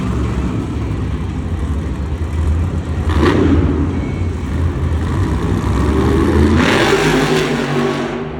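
Monster truck's supercharged V8 running hard through a freestyle run. There is a short loud burst of noise about three seconds in and a louder, noisier stretch near the end.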